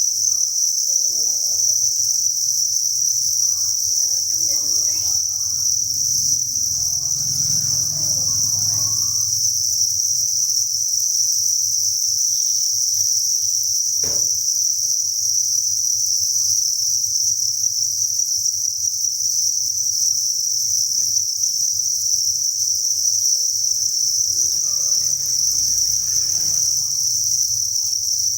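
Dense chorus of many farmed crickets chirping, merging into one continuous high-pitched trill, with a single sharp click about halfway through.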